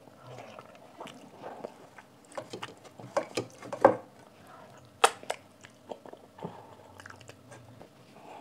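Close-miked wet chewing of a hand-fed mouthful of rice and besan kadhi, with lip smacks and crisp mouth clicks. A cluster of louder clicks comes a little after three seconds in, and one sharp loud click at about five seconds.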